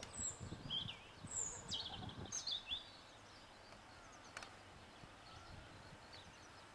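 Outdoor ambience with birds chirping and calling several times in the first three seconds and again near the end. Under them is a faint steady hiss and some low, uneven rumble early on.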